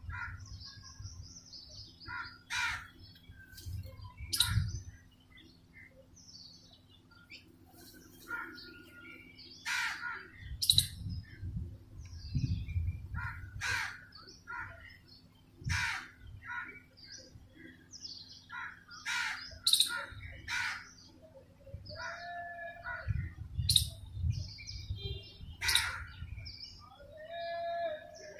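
Birds calling: repeated short harsh calls every second or two, with smaller high chirps between them.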